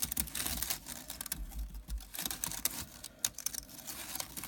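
A leaf rustling and crackling as it is handled and moved, with many small irregular clicks and taps.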